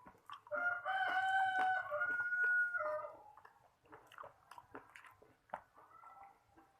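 A rooster crowing once, a long call of about two and a half seconds that falls at its end, over the crunchy chewing of crispy fried chicken, which goes on as soft clicks after the crow.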